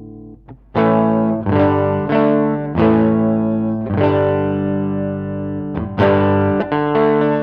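Electric guitar, a Fender Stratocaster, played through a Line 6 Helix amp-and-cab model with a crunchy, distorted tone. A run of chords is struck and left to ring, one held for about two seconds near the middle before the playing picks up again.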